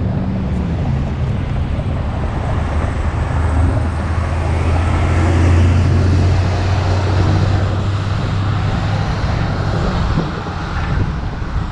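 Road traffic: a car engine running close by, a steady low hum that grows stronger a few seconds in and eases off near the end, over a steady rush of wind and road noise.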